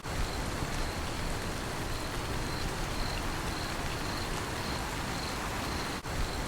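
Steady rain falling, with a cricket chirping in an even, repeating pulse over it. The sound dips for a moment about six seconds in.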